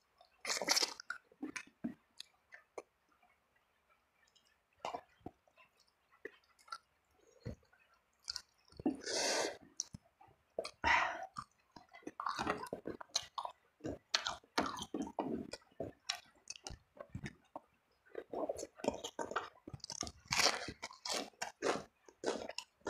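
A person eating close to the microphone: irregular crunching, chewing and wet squishing of food, with a few louder crunchy bursts.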